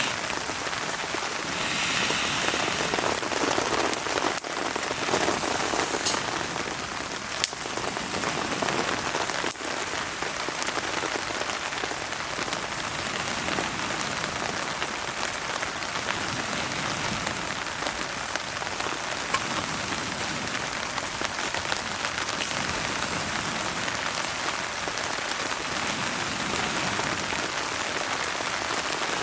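Steady rain falling, with a few sharp pops from a wood fire burning in a fire pit.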